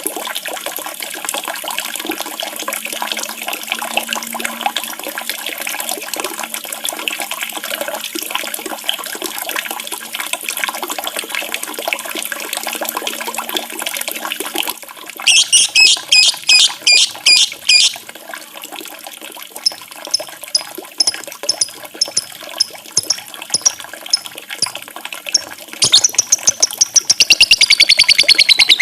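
Steady rushing running water for about the first half, which stops suddenly. A songbird then sings: a quick burst of repeated high notes, a run of short spaced chirps, and near the end a loud fast trill that sweeps down in pitch.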